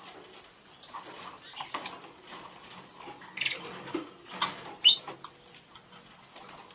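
Budgerigars chirping and chattering softly among scattered small scratchy clicks, with a short chirp about three and a half seconds in and a sharp, louder chirp just before five seconds.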